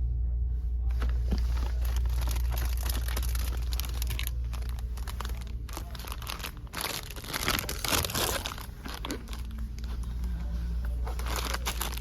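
Crinkling and rustling of merchandise packaging being handled, in irregular bursts that are loudest about eight seconds in, over a steady low hum.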